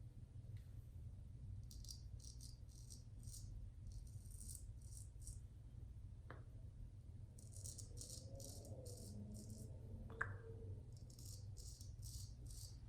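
Straight razor shaving lathered stubble: runs of short, quick scraping strokes, several a second, with pauses between the runs. There is a light tap about six seconds in and a sharper one near ten seconds.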